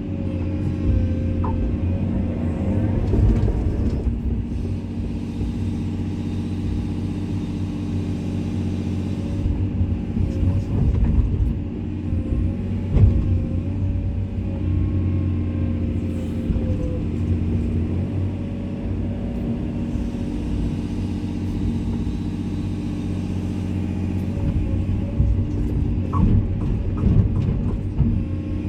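Komatsu excavator's diesel engine running steadily under working load, with intermittent knocks and clunks from the machine moving material.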